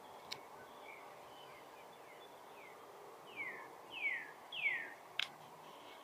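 A songbird singing a run of falling whistled notes that start faint and grow louder, ending in three loud, clear down-slurs. There are two sharp clicks, one near the start and one just after the song, over a steady faint hum of distant background noise.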